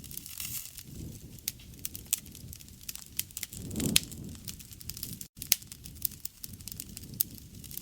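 Wood campfire burning, with frequent sharp crackles and pops over a low rumble of flames. The flames swell louder about four seconds in, and the sound cuts out for an instant just after that.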